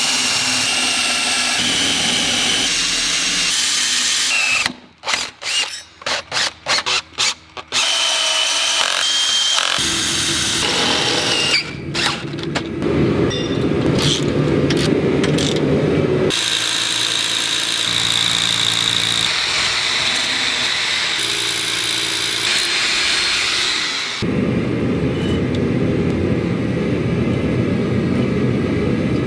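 Power drill drilling into concrete to set anchor bolts: long steady runs, with a string of short trigger pulses about five seconds in and abrupt changes in pitch and tone several times.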